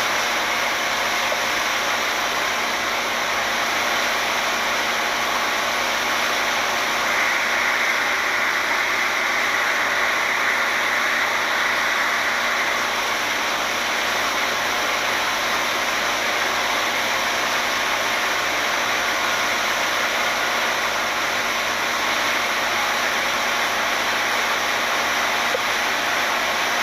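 A steady, even rushing noise with no breaks, a little brighter for a few seconds in the first half.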